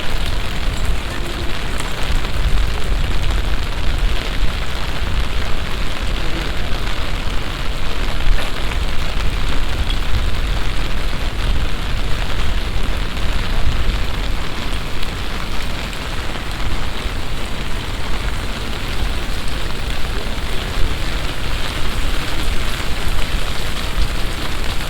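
Heavy summer downpour: a steady, dense hiss of rain falling and splashing, with a deep rumble underneath.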